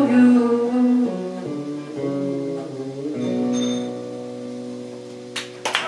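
Closing chords of a song on a guitar: a few strums that are left to ring and slowly fade. The first claps of applause start near the end.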